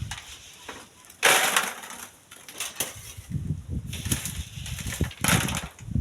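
Strong wind gusting over the microphone: an irregular low buffeting rumble, with a sudden loud gust about a second in and another near the end.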